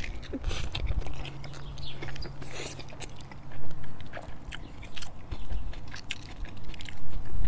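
Biting into and chewing a soft flour-tortilla cheesy chicken taco, close to the microphone: irregular wet mouth clicks and smacks as the food is chewed.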